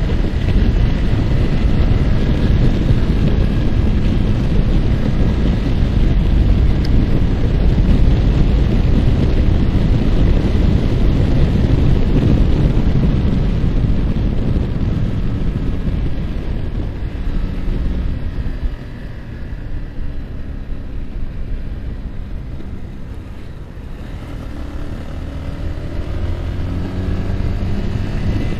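Yamaha R15 ridden at speed: heavy wind rush over the microphone with the single-cylinder engine running underneath. The wind drops away about two-thirds through as the bike slows, then the engine note climbs as it accelerates again near the end.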